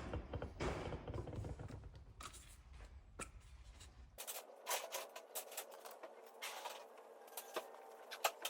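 Faint scattered clicks and light taps of hands working with small parts, as a new water-pump gasket and silicone are handled. A low background rumble cuts off abruptly about four seconds in.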